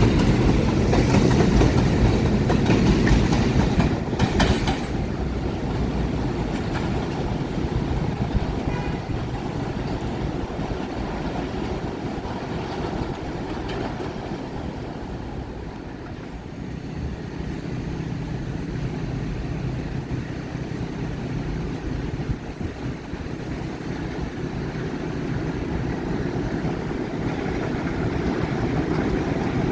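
New York City Subway 1 train running on the elevated steel viaduct, with a steady rumble and wheel clatter. The sound is loudest at the start, fades through the middle and swells again near the end.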